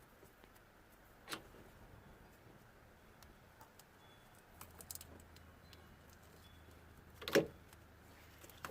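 Faint handling noise of hands working at a car's wiring loom, unwrapping its tape: scattered small clicks and rustles, with a sharp knock about a second in and a louder one about seven seconds in. A low hum comes in about halfway through.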